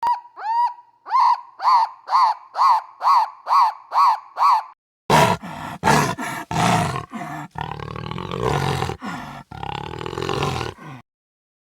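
Animal calls: a quick series of about nine short, high calls, each rising and falling in pitch, then several seconds of loud, rough roaring calls.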